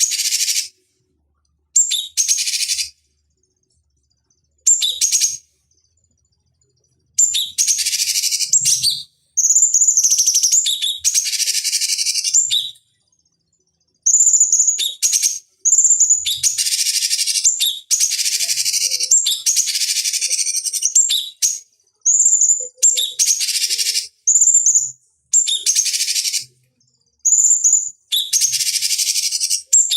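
Cucak cungkok bird calling over and over, each call a high clear note running straight into a harsh, scratchy chatter. The calls come in bursts of about half a second to two and a half seconds with short silences between, more closely packed in the second half.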